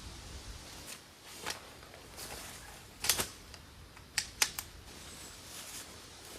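A few sharp clicks and snaps at irregular intervals over a quiet background, with the loudest cluster about three seconds in and a quick run of three about a second later.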